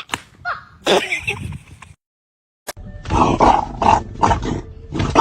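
An animal's harsh, noisy calls, with a short pitched cry before a sudden break to silence about two seconds in.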